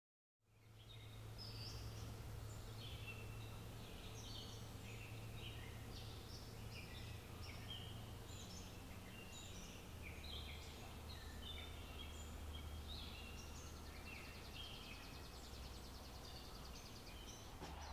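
Birds chirping and singing, many short irregular calls and an occasional trill, over a faint steady low rumble of outdoor ambience, coming in about half a second in.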